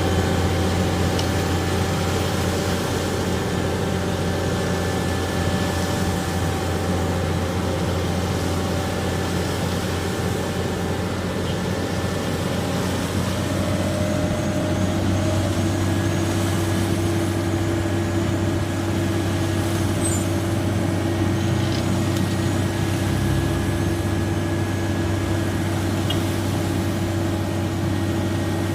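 Motor vehicle engine running steadily, its note shifting to a new steady pitch about halfway through.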